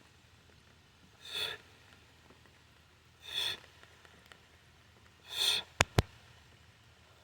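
A person breathing out sharply three times, about every two seconds, in time with kettlebell snatch reps, followed near the end by two sharp clicks in quick succession.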